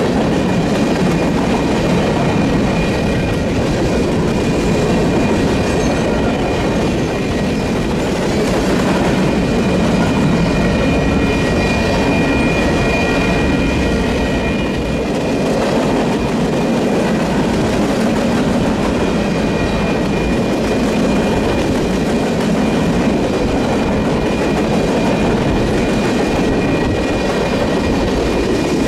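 Union Pacific manifest freight train's cars rolling steadily past at the crossing: a continuous rumble of wheels on rail, with a steady high-pitched ringing tone over it that is strongest in the middle.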